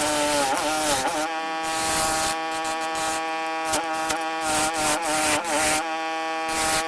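Electric power tool's motor whining under load while carving walnut. Its pitch wavers and dips in the first second as it bears into the wood, then holds steady, with the rasp of the cutter on the wood over it.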